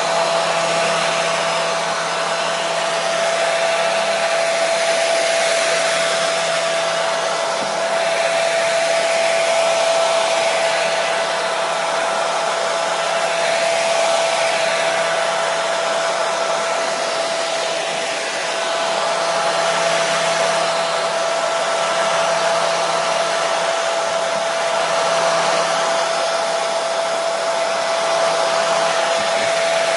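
Hair dryer running continuously: a steady rushing blow of air with a constant motor whine and a low hum underneath, swelling and easing slightly now and then.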